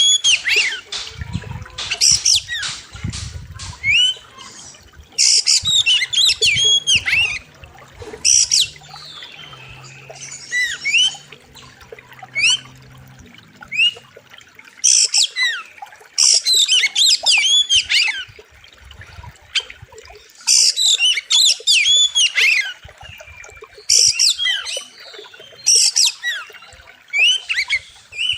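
Oriental magpie-robin (kacer) singing: loud, sharp bursts of rapid whistles and chattering notes, each burst a second or two long, repeated every few seconds.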